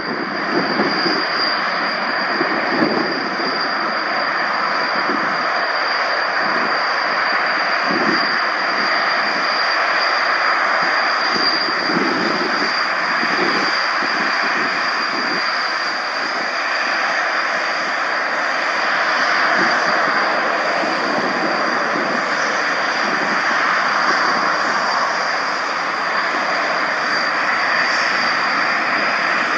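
Fixed-wing aircraft engine running steadily: a continuous loud rush with a thin, steady high whine over it.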